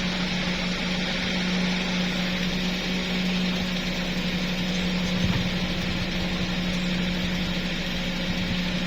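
A steady low machine hum, like a small engine running, over a constant hiss; the hum cuts off at the very end, and there is a brief low knock about five seconds in.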